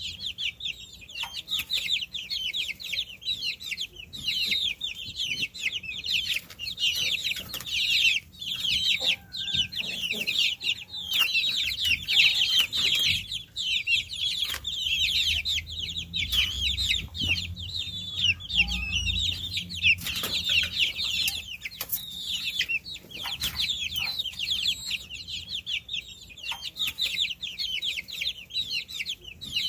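A brood of baby chicks peeping, many high chirps overlapping without a break. A faint low rumble sits underneath for a few seconds around the middle.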